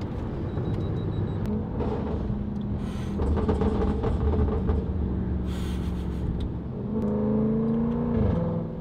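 Range Rover SVR's 5.0-litre supercharged V8, heard from inside the cabin through a titanium aftermarket exhaust with free-flow downpipes, running on the road. It gets louder from about three seconds in, and near the end a held engine note drops away suddenly.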